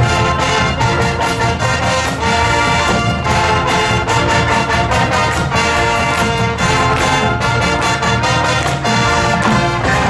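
Marching band playing loudly: brass with trombones and trumpets over drum hits.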